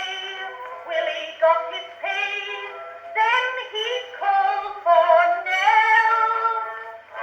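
Edison Triumph Model F phonograph playing a four-minute Amberol wax cylinder: an early acoustic recording of a popular song, heard as a thin, bass-less melody in short pitched notes.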